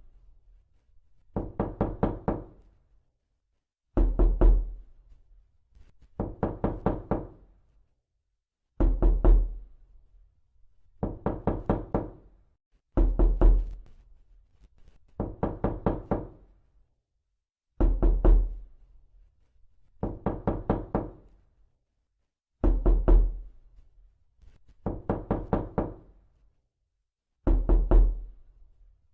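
Repeated knocking in pairs of bursts: a loud, heavy volley of knocks, then about two seconds later a quicker run of five or six lighter knocks. The pair comes round about every four and a half seconds.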